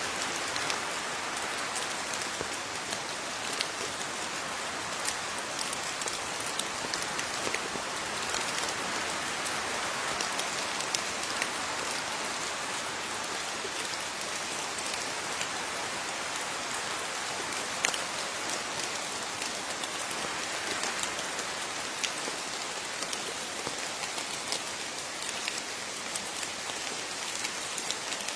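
Steady rain falling, a continuous hiss dotted with the sharp ticks of individual drops striking a surface.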